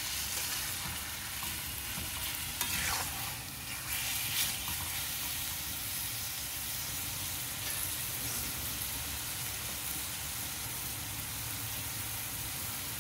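Chicken pieces with onions and ginger-garlic paste sizzling in oil in a metal kadai while a metal spatula stirs them. There are a few scrapes and knocks of the spatula against the pan in the first five seconds, then a steady sizzle.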